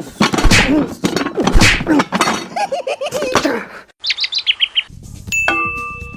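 High-pitched chattering voice with sharp slaps, then a quick run of short falling bird-like chirps about four seconds in, followed by a steady electronic tone near the end.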